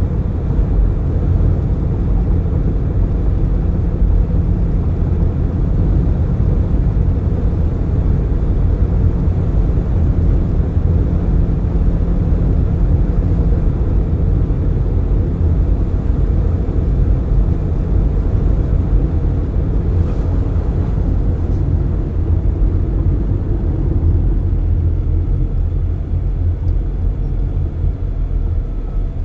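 Road noise inside a moving car with its windows open: a steady low rumble of tyres, engine and wind rushing in.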